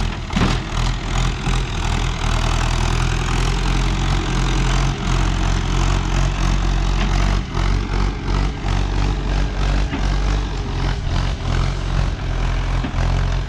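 Tractor diesel engine running steadily and loud at close range, with frequent knocks and rattles over it.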